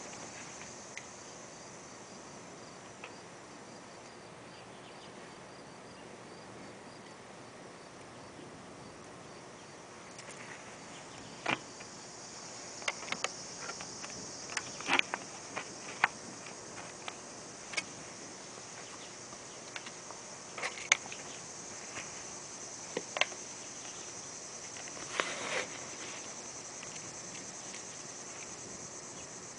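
Steady high-pitched insect chorus, like crickets, with scattered sharp ticks and pops that begin about a third of the way in; no thunder is heard.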